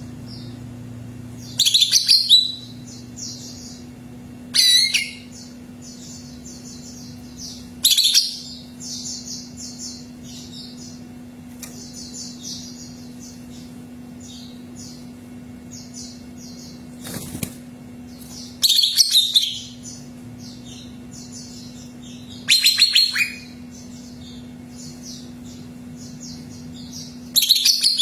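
Cucak ijo (green leafbird) singing: a continuous fast, high twittering broken every few seconds by louder bursts of song, seven in all. A steady low hum runs underneath.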